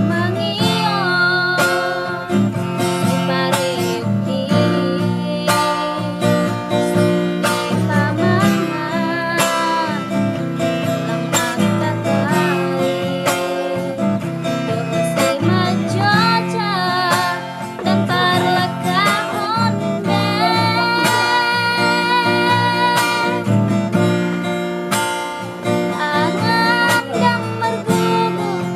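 A woman singing a slow song with vibrato to acoustic guitar accompaniment.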